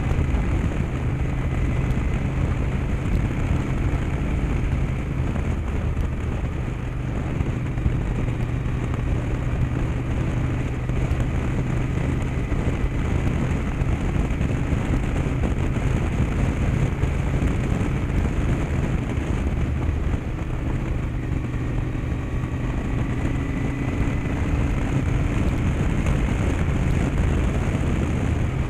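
Yamaha TDM850's parallel-twin engine running at a steady cruise while riding, under a broad rush of wind and road noise.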